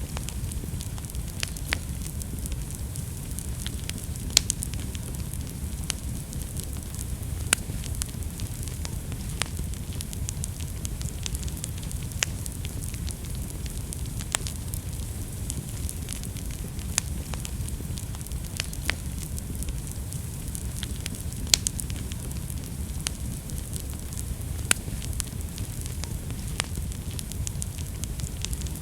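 Wood fire burning in a fireplace: a steady low rumble and hiss of flames with frequent sharp crackles and pops, a few of them louder.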